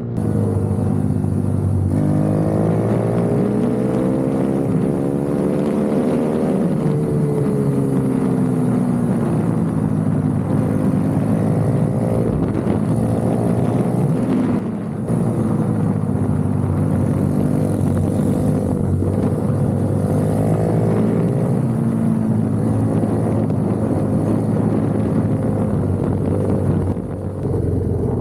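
Minibike engine heard from onboard, its pitch rising and falling over and over as the rider opens and closes the throttle, with other minibike engines close by at different pitches. The throttle briefly closes about halfway through and again near the end.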